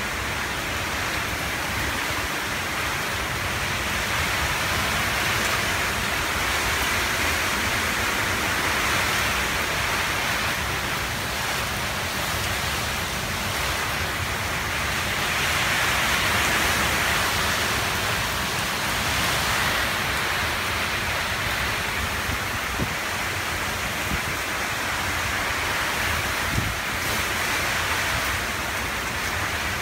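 Heavy hurricane rain with gusty wind, a steady rushing hiss that swells and eases with the gusts.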